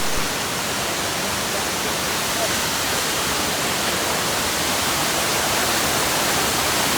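Steady rushing noise of Ouzoud Falls, an even wash of falling water with no change in level.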